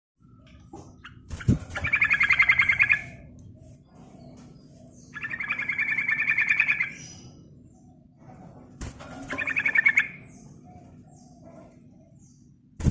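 Yellow-vented bulbul (trucukan) giving three loud bursts of rapid, rattling chatter, each lasting about a second or more with pauses between. A sharp click comes just before the first and third bursts.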